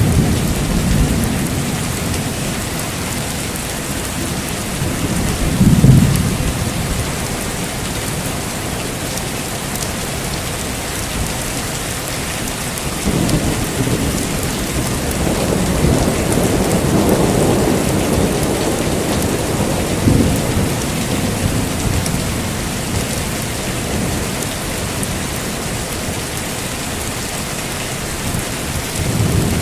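Heavy, steady rain with thunder: a sharp thunderclap about six seconds in, then a long rolling rumble that swells and fades in the middle.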